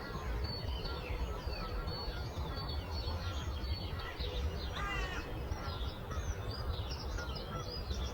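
Several songbirds chirping and warbling together in a morning chorus, with one louder, harsher call about five seconds in, over a steady low rumble.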